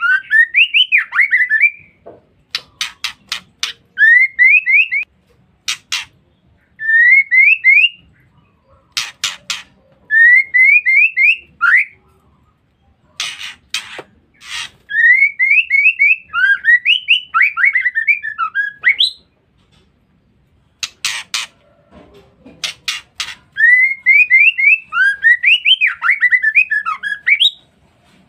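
Female white-rumped shama calling. Short phrases of quick, rising whistled notes repeat every few seconds, alternating with bursts of sharp, rasping clicks.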